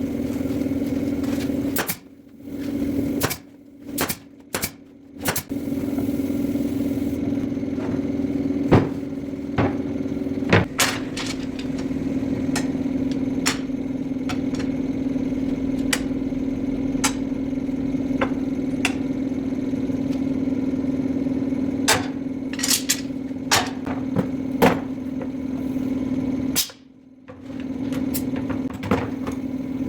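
A machine motor running steadily with a low hum, with scattered sharp knocks and clatter of work on wood. The sound cuts out abruptly a few times.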